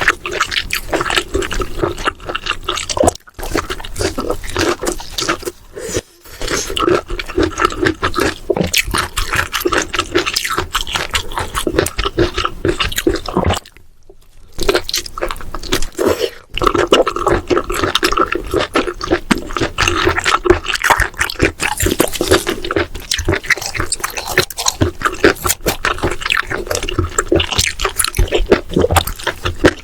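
Close-up wet chewing and slurping of baby octopus and dureup shoots in spicy sauce, a steady run of sticky, smacking mouth sounds. It breaks off briefly twice in the first few seconds and for about a second near the middle.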